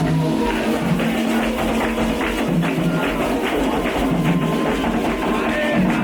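Candomblé ritual music: hand drums and percussion playing a quick, steady beat over held low notes.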